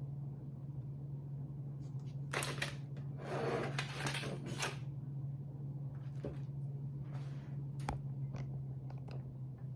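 Kitchen handling sounds: a few light clicks and knocks, with a louder scraping, rustling stretch about two to five seconds in, over a steady low hum.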